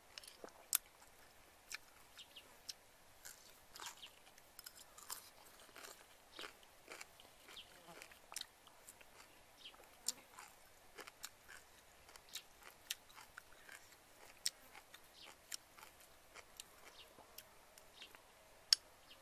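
A person eating fish soup with a spoon: quiet chewing and wet mouth clicks and smacks, irregular and close up, with a few sharper clicks, the loudest about a second in and near the end.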